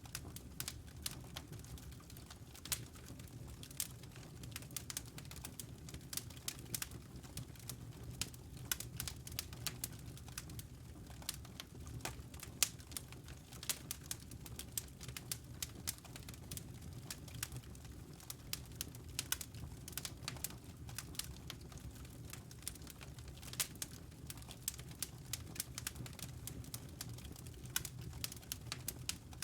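Wood fire crackling in a fireplace: irregular sharp pops and snaps, several a second, over a steady low background noise.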